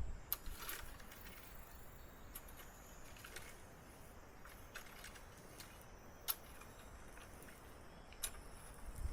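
Quiet outdoor background with a few faint, scattered clicks and ticks, about eight over nine seconds.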